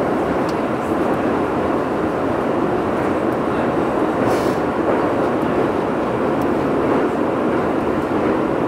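Keio 8000 series electric train running at steady speed, heard from inside the car above its Hitachi GTO-VVVF inverter: an even running noise of wheels on rails that holds steady throughout, with no clear rising or falling inverter tone.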